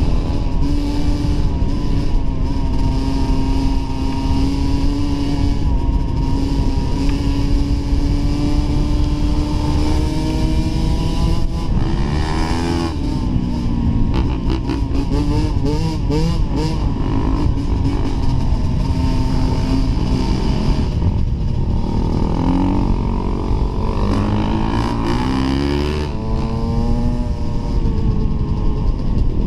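Dirt bike engine running as the bike is ridden. It holds a fairly steady pitch for about the first ten seconds, then rises and falls repeatedly as the rider works the throttle and gears.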